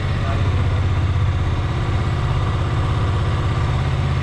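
KTM Duke 125's single-cylinder four-stroke engine idling steadily in neutral, with an even rapid pulse.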